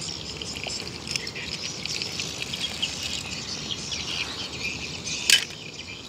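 Many small birds chirping continuously, with one short sharp click about five seconds in, the loudest sound.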